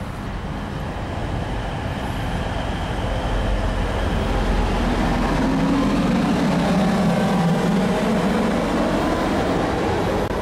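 First TransPennine Express Class 185 diesel multiple unit pulling into a station platform: engine and wheel-on-rail rumble growing louder as it draws alongside, with a low hum strongest in the second half.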